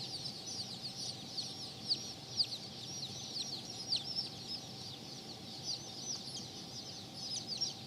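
A group of chickens peeping: many short, high, falling chirps overlapping continuously.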